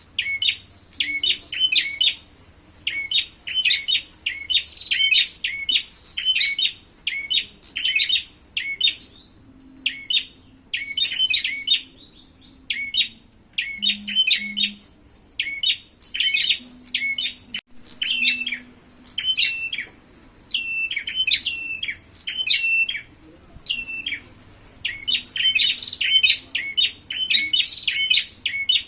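Prenjak (prinia-type) songbirds in a fight, giving fast, sharp chirping calls, several a second. The calls come in runs broken by short pauses.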